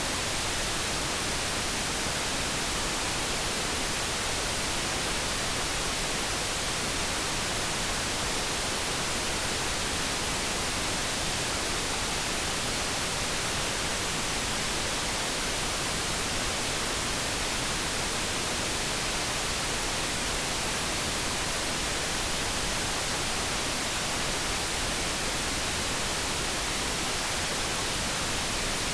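Steady synthetic noise: an even, unchanging hiss with no tones or separate sounds.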